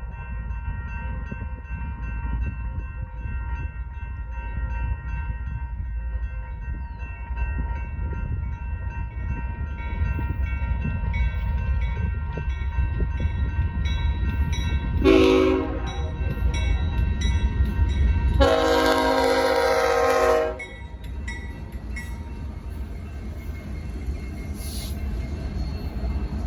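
Diesel freight train rumbling steadily past, with the locomotive horn sounding a short blast and then a longer blast about three seconds later.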